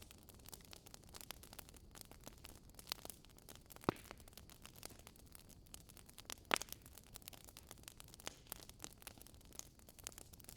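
Wood fire burning in a fireplace: soft steady crackling with frequent small snaps and two louder pops, about four seconds and six and a half seconds in.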